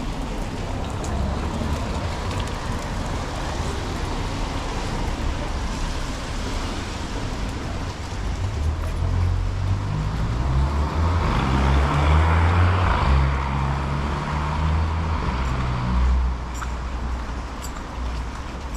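City street traffic: a steady background of road noise, with a vehicle passing close by that swells about ten seconds in, peaks, and fades away a few seconds later.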